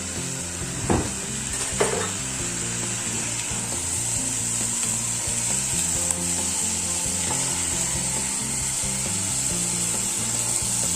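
Chicken pieces being stirred together with onions, spices and olive oil in a cooking pot, a steady hissing, sizzle-like sound with two sharp knocks about one and two seconds in. Light background music underneath.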